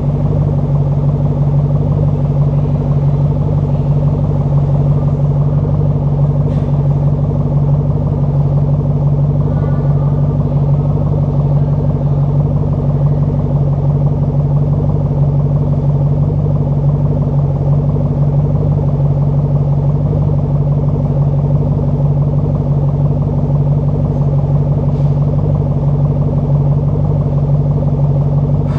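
Ford Mustang 4.6-litre V8 exhaust running steadily at an even, unchanging pitch, with no revving.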